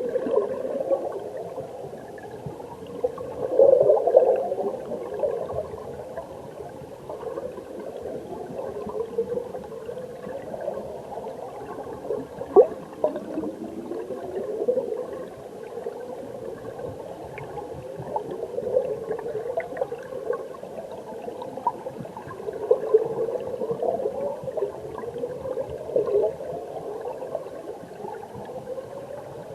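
Mountain stream current heard through an underwater microphone: a steady muffled gurgling and bubbling with repeated rising bubble sweeps, swelling louder a few times, and a single sharp tick about midway.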